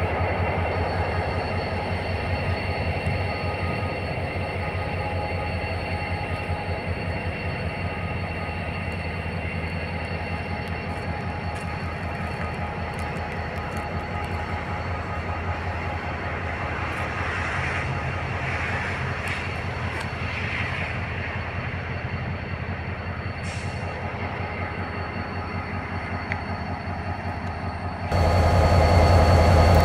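Double-deck autorack car-carrier wagons of a freight train rolling past: a steady rumble of wheels on rail, with a thin, steady high squeal above it. Near the end the sound cuts abruptly to a louder, deeper rumble.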